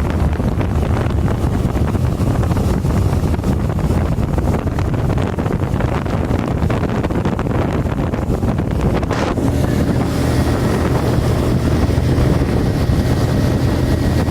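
2007 25 hp Mercury outboard motor running steadily at speed, driving a boat along, with wind buffeting the microphone.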